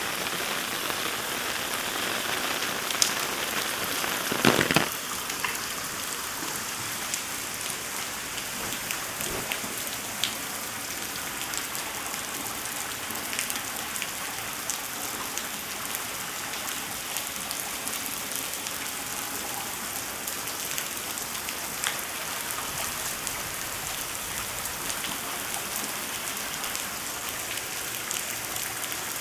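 Steady heavy rain falling and pattering on surfaces, a dense hiss dotted with the ticks of single drops, a little heavier for the first few seconds. A short cluster of sharp knocks sounds about four and a half seconds in.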